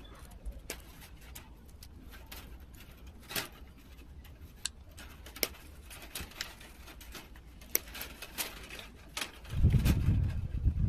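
Light, scattered clicks and ticks of wire being handled and worked with pliers. A louder low rumble sets in near the end.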